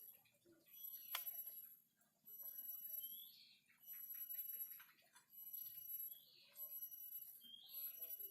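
A caged bird giving short chirps every second or two, with a sharp click about a second in, over faint steady high-pitched tones.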